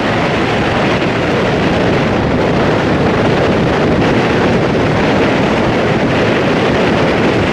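Strong wind blowing steadily across the microphone on the open deck of a moving boat, over the rush of water along the hull.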